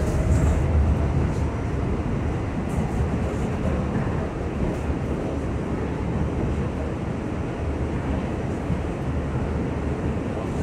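R68 subway car running at speed through the tunnel: a steady, dense rumble of wheels on rail with a few faint clicks.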